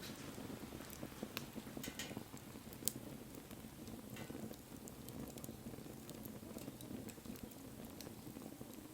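Wood fire burning: a low steady rush with scattered sharp crackles and pops, the loudest about three seconds in.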